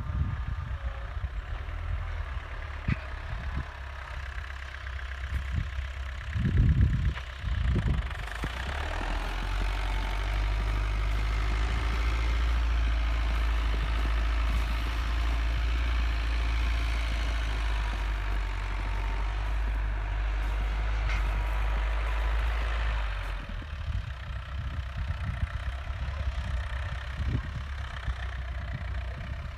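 Four-cylinder Mercedes OM 364 diesel engine in a T-40 tractor running at idle. About eight seconds in it is brought up to a higher, steady speed and held there for about fifteen seconds, then drops back to idle.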